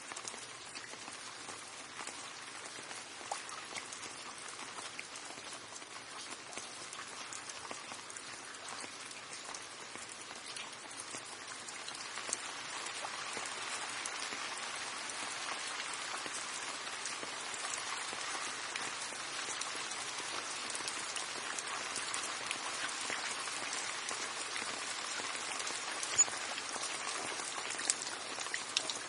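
Steady rain falling, with individual drops ticking through the hiss; it grows a little heavier about twelve seconds in.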